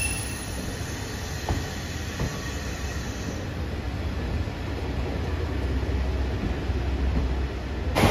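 KiHa 185 series diesel railcar train rolling slowly past with a steady low rumble. A faint wheel squeal dies away at the start, and two short clicks from the wheels on rail joints come about a second and a half and two seconds in.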